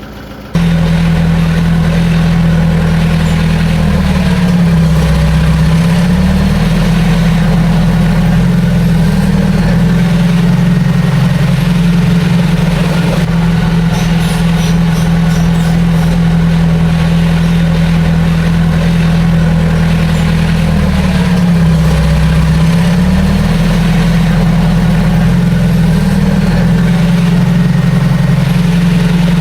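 Heavy diesel engine running loud and steady, starting abruptly about half a second in. Its pitch dips and recovers twice as it takes load.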